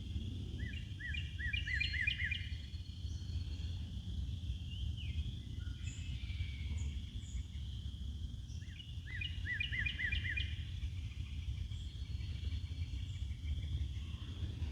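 A songbird sings a short phrase of quick repeated high notes twice, once near the start and again about nine seconds in, with a few faint chirps between. A steady low rumble runs underneath.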